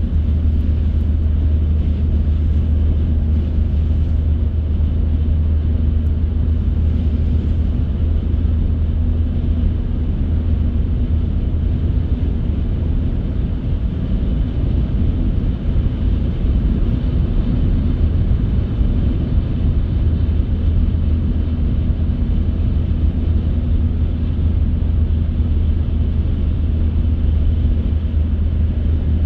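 A car driving at steady speed: a continuous deep rumble of road and engine noise with no sudden events.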